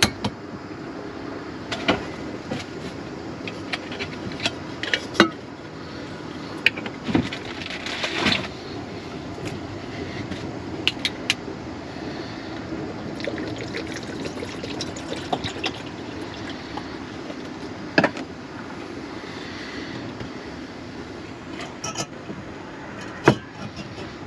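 Water being poured into a pot or kettle, with intermittent sharp clicks and knocks of cookware and containers being handled.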